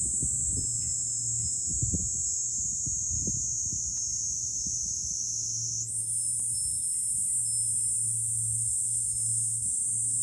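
A chorus of cicadas singing, a steady high-pitched drone whose pitch steps up about six seconds in. Wind buffets the microphone in the first few seconds, and a wind chime tinkles faintly.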